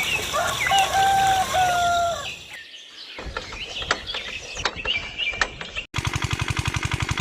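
A rooster crows once in a long held call, with small birds chirping around it. About six seconds in, after a cut, a small engine starts running with a fast, even chugging of about eight beats a second.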